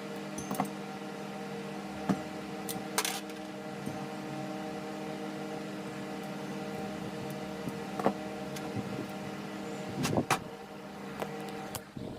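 Steady hum of a table fan's motor, with a few sharp clicks and knocks scattered through it.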